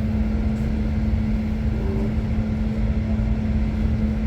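Steady rumble of a moving passenger train heard from inside the carriage, with a constant low drone running under it.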